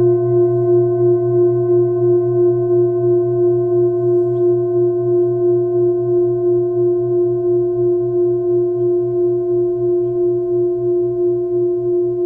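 Singing bowl ringing on, a chord of several steady tones with a slow wavering pulse, fading very slightly.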